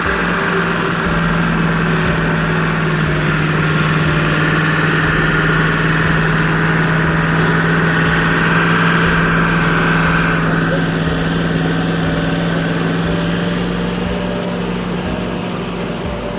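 Vehicle engine running steadily: a constant low drone under an even wash of road noise, swelling a little in the middle and easing towards the end.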